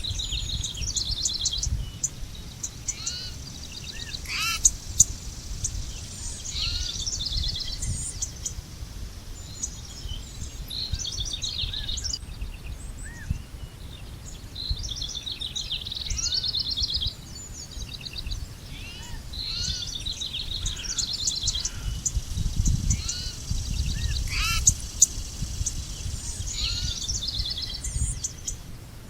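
Several birds singing and chirping, with quick trilled phrases repeating every few seconds, over a steady low rumble.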